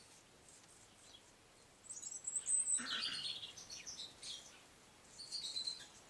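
Aviary birds chirping: a high thin call about two seconds in, then a cluster of short chirps, and another brief round of chirping near the end.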